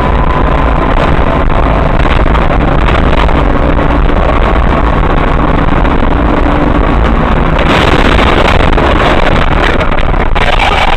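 Loud, steady vehicle engine and road noise picked up by a dashcam microphone, rumbling and unchanging, with no crash impact heard.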